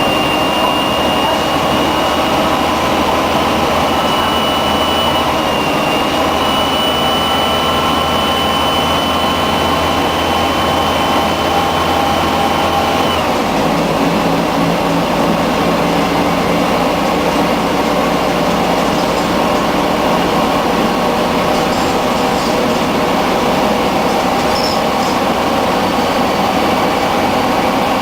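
Scania N113 bus under way, with its diesel engine running steadily and a high whine from the driveline. About halfway through, the whine stops and the engine note changes abruptly, as at a gear change, then runs on steadily.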